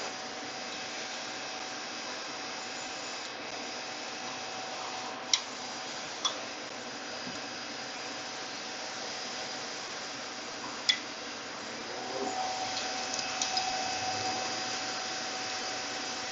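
Steady hum of running HVAC equipment, with a few sharp metallic clicks of hand tools on metal as a worn blower-drive pulley is worked off its shaft, and a burst of rattling handling about twelve seconds in.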